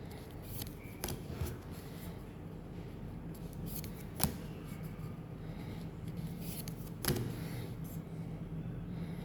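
Hands opening and handling card packaging during an unboxing: soft rustling with three sharp clicks about three seconds apart, over a steady low hum.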